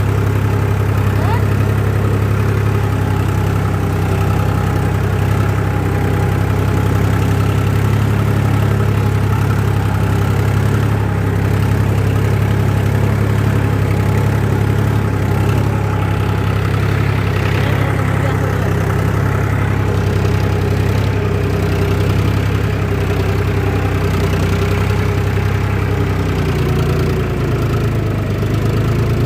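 Tractor engine running steadily at low speed, a continuous low, even drone with a slight change in pitch near the end.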